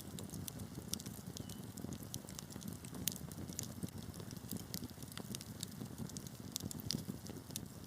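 Wood fire burning in a fireplace: a low steady rumble of flames with frequent irregular sharp crackles and pops, a louder pop about three seconds in.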